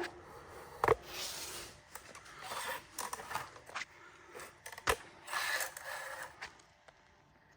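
Handling noises at close range: a few sharp clicks and knocks among short stretches of scraping and rustling.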